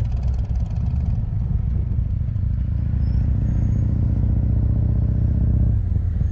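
Motorcycle engine running steadily, its note shifting slightly near the end.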